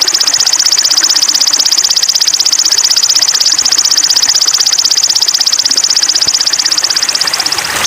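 A songbird's rapid high trill: a long, steady run of very fast repeated notes. Right at the end it switches to a slightly lower trill.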